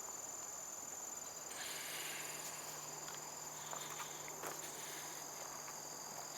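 A steady, high-pitched chorus of trilling insects, with a brief rustle about a second and a half in.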